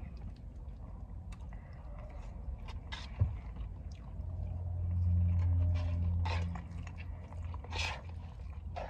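Close-up chewing and lip smacks of a person eating from a bowl with a plastic fork, with scattered small clicks. A low steady hum swells up a little after the middle, holds for about two seconds and fades.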